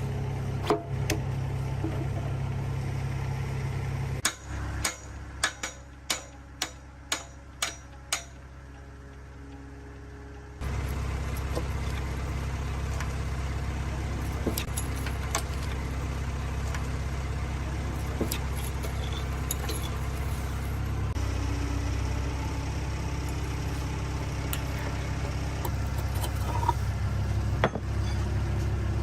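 A steady low machine hum with scattered metallic clinks. In the middle the hum drops away and about seven sharp metal strikes come at roughly half-second intervals, like hammer blows on steel. After a quieter stretch the hum starts again with more light clinks.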